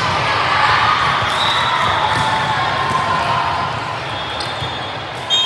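Ball hits and bounces on a gym floor during a youth volleyball match, with players' and spectators' voices echoing in the hall.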